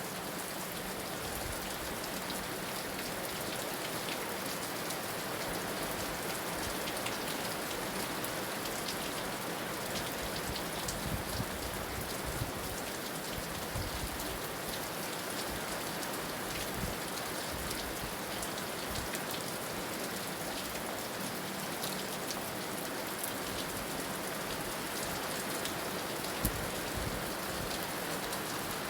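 Heavy rain falling steadily, a dense even hiss with scattered drop patters.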